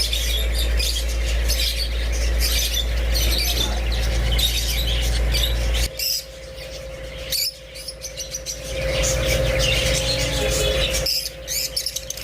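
A flock of caged cockatiels and other small parrots chirping and squawking all together, with a low rumble under the first half that drops off about six seconds in.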